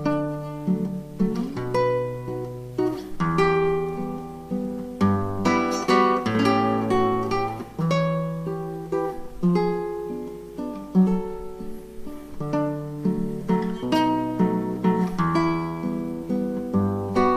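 Background music played on acoustic guitar: plucked notes and chords that ring out and fade.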